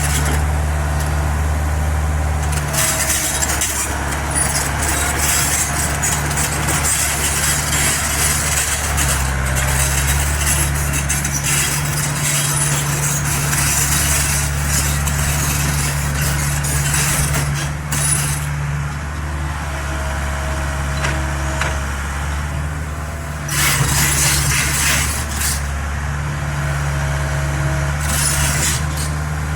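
Mini excavator engine running steadily under work, with a shifting high hiss over the low drone and a louder burst of hiss a little past the middle.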